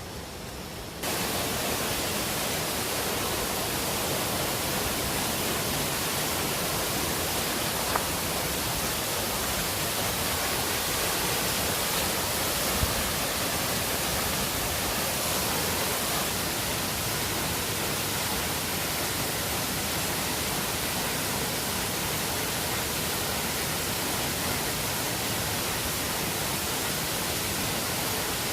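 Steady rush of a waterfall's falling water, jumping abruptly louder about a second in, with a couple of faint clicks.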